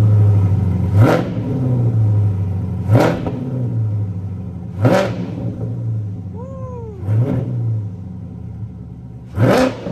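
C8 Corvette's V8 idling through newly fitted FabSpeed headers, catalytic converters and exhaust, blipped five times about every two seconds, each rev climbing sharply and dropping back to idle. The exhaust has a deep, throaty tone.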